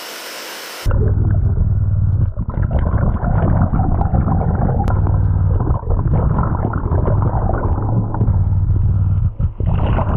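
Steady hiss of falling water that cuts off suddenly about a second in, as the microphone goes underwater. From then on there is a loud, muffled low rumble and gurgle of churning water beneath the waterfall.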